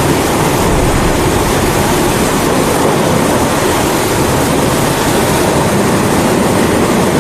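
Pressurised kerosene (Primus-type) stove burner running with a steady rushing roar, mixed with continuous rain.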